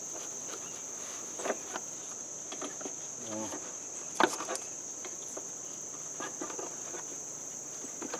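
Crickets chirring steadily and high-pitched in the background, with a few light clicks and knocks from hands working a fan belt around a tractor's fan and pulleys. The sharpest knock comes about four seconds in.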